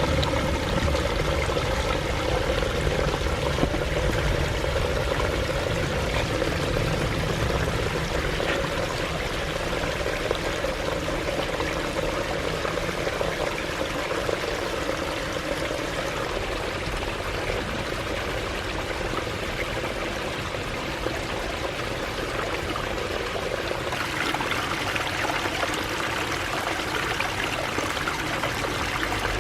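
Water running and splashing down the stones of a small pondless waterfall, a steady rush of falling water. Near the end the splashing turns brighter and hissier.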